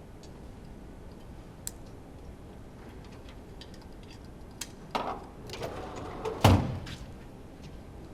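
Metal engine parts and tools being handled during an engine teardown: a few light clicks, then a run of clinks and clanks about five seconds in, with one heavy clunk about six and a half seconds in.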